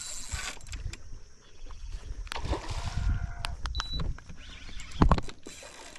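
Wind rumble and water noise on a small fishing boat, with scattered clicks and a loud knock about five seconds in.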